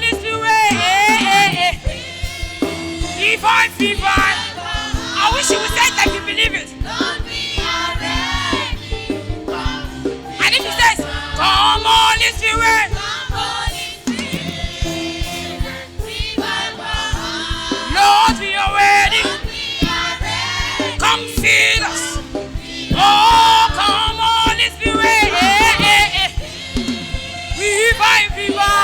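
Gospel choir singing with a live band: wavering, sustained voices over a steady drum beat and bass.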